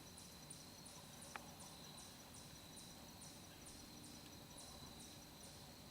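Faint insects calling in the woods: a steady high trill with a regular series of short, high, falling chirps about three a second. One small click about a second and a half in.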